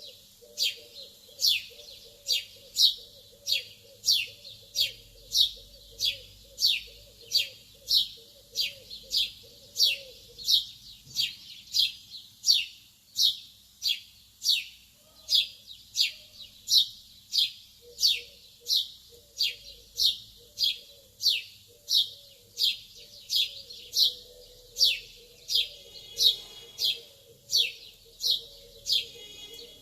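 A lovebird repeats one sharp, high chirp that falls in pitch, at an even pace of about three chirps every two seconds. A fainter, lower warbling runs underneath and drops out for several seconds in the middle.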